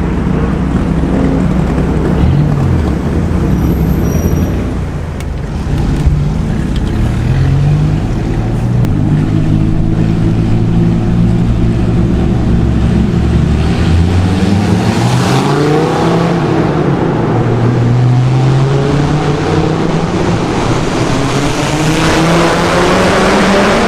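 Dodge Viper V10 with a custom muffler-delete exhaust accelerating hard in a tunnel. The exhaust note climbs through the revs several times, dropping at each gear change, loud and echoing.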